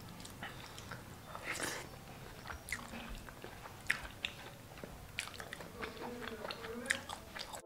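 A person eating pulao with chicken by hand and chewing, with scattered soft wet smacking clicks from the mouth.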